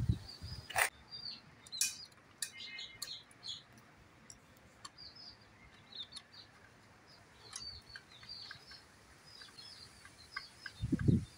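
Small birds chirping: many short, high chirps throughout. A few sharp clicks come in the first few seconds, and low knocks come near the end.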